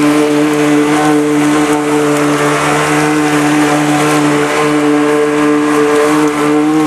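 Engine of a homemade amphibious Subaru car-boat running at a steady, unchanging pitch as it travels through the water.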